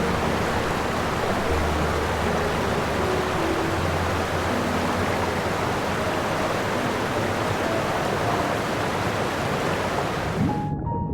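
Steady rushing noise, even and unbroken, with faint music beneath it; the noise cuts off suddenly about a second before the end, leaving the music.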